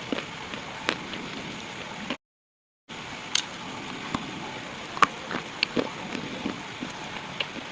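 Pieces of slate being crunched and crumbled: irregular sharp cracks and crackles over a steady hiss. The sound drops out completely for under a second, about two seconds in.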